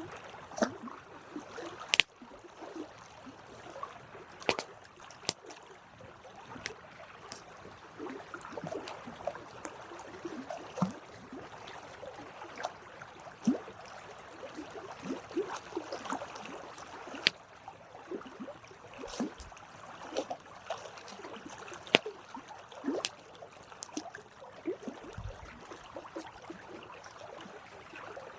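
Wood campfire burning: a soft steady hiss of flames broken by irregular crackles and pops, with a few sharper snaps.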